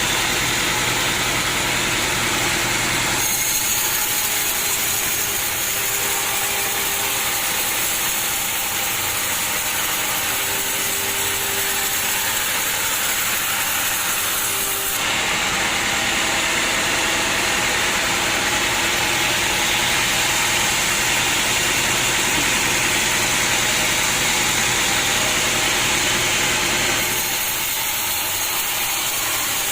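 Sawmill machinery running: a steady engine sound under a loud hiss-like noise, which changes abruptly about three seconds in, again about halfway through, and near the end.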